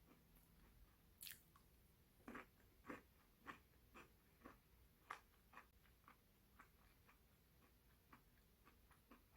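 Faint close-up chewing of a crisp waffle spread with chocolate cream, with soft crunches about twice a second.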